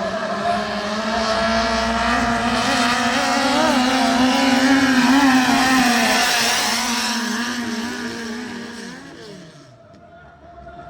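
A racing boat's engine running hard at high revs, swelling as the boat passes and then fading, with the revs dropping away about nine seconds in.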